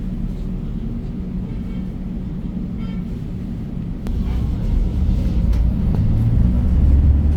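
2015 Hyundai New Super Aerocity city bus's C6AF CNG engine heard inside the cabin: a steady low running sound, then about four seconds in the rumble grows louder and deeper and keeps building as the bus accelerates.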